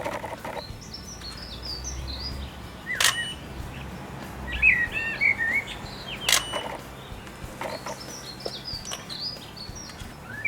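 Small birds singing, with quick repeated chirping phrases and a lower warbling phrase in the middle, and two sharp clicks about three seconds apart.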